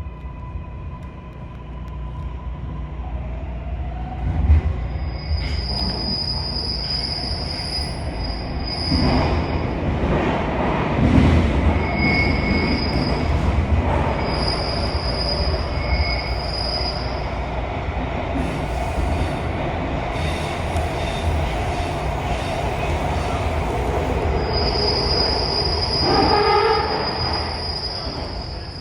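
MARTA rapid-transit railcar running, heard from inside the car: a steady low rumble of wheels on track, with high-pitched wheel squeal that comes and goes in stretches of a few seconds, the longest near the end.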